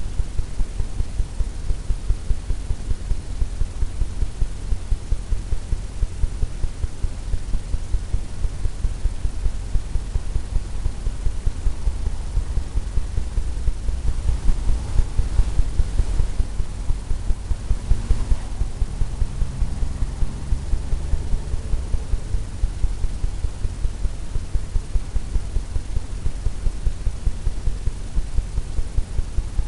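Paint brush tapping on a stretched canvas: dull low thumps, about three a second, over a steady low hum.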